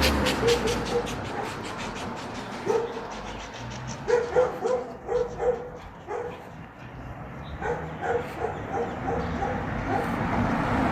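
A dog barking in short runs of quick, fairly high barks, several a second, with pauses between the runs. A vehicle passes at the start, and another approaches near the end.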